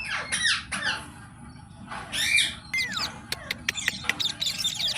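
Green parrot squawking and chirping: quick calls that fall in pitch, a louder call about two seconds in, then a fast run of sharp clicks and short chirps in the second half.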